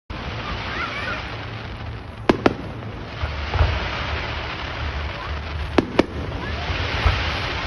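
Fireworks going off: two pairs of sharp bangs, one pair about two seconds in and another about six seconds in, over a steady rushing hiss.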